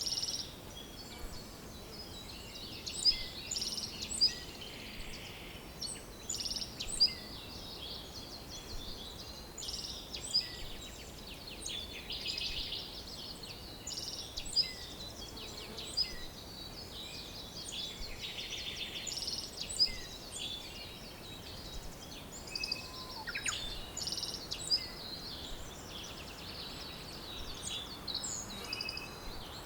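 Several songbirds singing together, a busy chorus of short chirps and rapid trills with no pause, over a faint steady background hiss.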